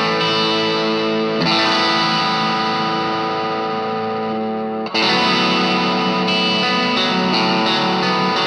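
Fender Stratocaster played through an Ibanez Tube Screamer Mini overdrive pedal into a Marshall MG15 amp. A chord is struck about a second and a half in and left to ring and slowly fade. Near the middle a new chord comes in and is played in a steady rhythm.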